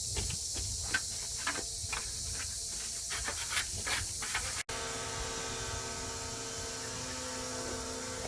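Scattered knocks and scrapes of hand work over a steady hiss. After a sudden cut about halfway, a steady machine hum with several even tones takes over.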